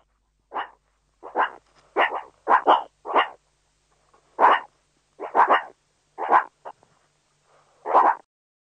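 Meerkats calling: about a dozen short, sharp calls, each well under half a second, coming singly and in quick pairs at irregular intervals with silence between.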